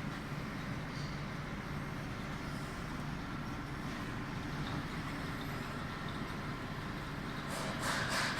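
Tunnel car wash machinery running: a steady mechanical hum and noise. Near the end a louder hissing sets in, pulsing quickly.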